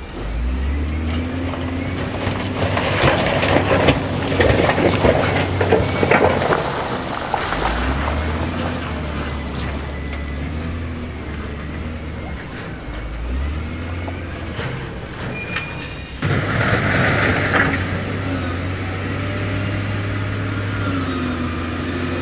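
Heavy diesel earthmoving machinery working, its engine revving up in steps about four times. Loud rough clattering a few seconds in.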